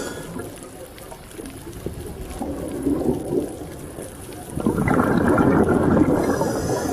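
Underwater ocean sound: a low rushing, bubbling wash of water that swells louder past the middle.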